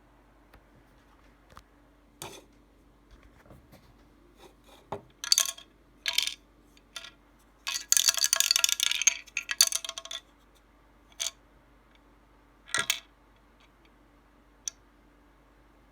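Small hard objects rattling in short clattery bursts: several brief rattles, a longer, denser run of about two seconds some eight seconds in, then two more brief ones.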